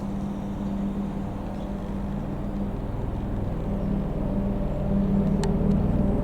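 Sikorsky S-92A helicopter's rotors and twin turboshaft engines: a steady drone with a low hum and rapid low pulsing, growing gradually louder as it comes closer. A brief click about five and a half seconds in.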